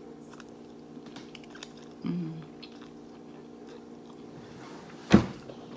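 Close-miked eating sounds of spicy ramen noodles being chewed: scattered small wet mouth clicks, a brief murmur about two seconds in, and a single sharp knock about five seconds in, the loudest sound.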